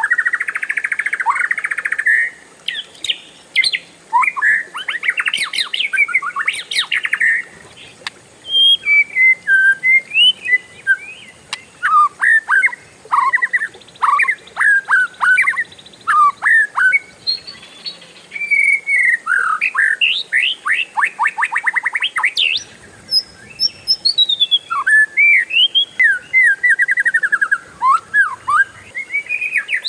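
Oriental magpie-robin (kacer) singing a long, varied song without pause: clear whistled and gliding notes mixed with stretches of fast rolling trills.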